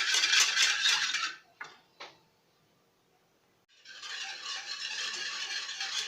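A utensil stirring a thin liquid mixture in a pot, with scraping and clinking. Two short clicks, then a break of near silence before the steady stirring resumes. The lemon-cream mixture of water, lemon juice, sugar and starch is being stirred over the heat until it thickens.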